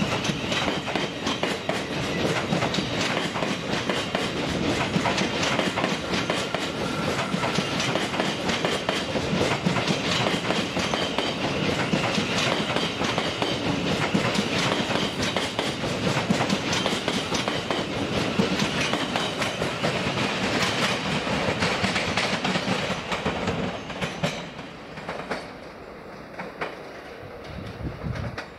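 Thameslink Class 700 electric multiple unit running close past along the platform: steady rail running noise with many wheel clicks over the track. It drops away sharply about 24 seconds in, leaving only a few scattered knocks.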